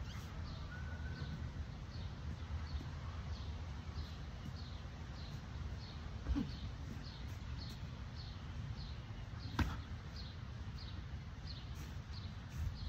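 A bird chirping over and over, about two short chirps a second, over a steady low outdoor rumble. Two sharp thuds stand out, about six and about nine and a half seconds in.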